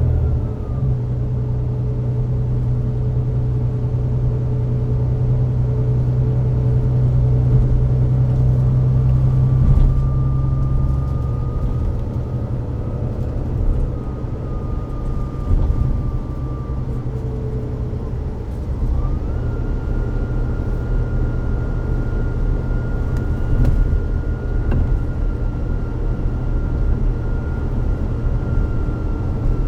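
Volvo B9TL bus under way, its Volvo D9B-310 diesel engine running with a steady low drone. A thin whine from the Voith DIWA864.5 automatic gearbox climbs in pitch about ten seconds in, drops away after seventeen seconds, then climbs again and holds.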